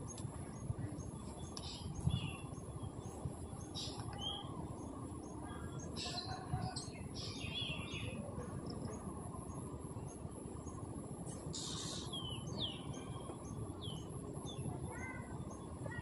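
Small birds chirping: scattered short, whistled calls that slide in pitch, several coming close together about halfway through and again near the end, over a steady low outdoor rumble.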